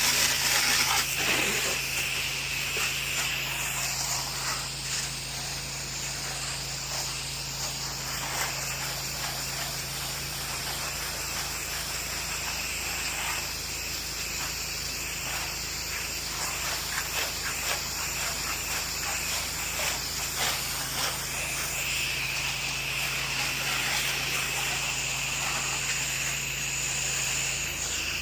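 Pressure washer spraying soap solution onto a house's exterior: a steady hiss of water spray over the even hum of the machine's engine and pump.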